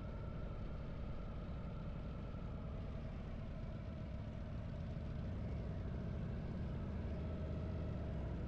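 Harley-Davidson V-twin motorcycle engine running steadily while riding, a little louder from about five seconds in.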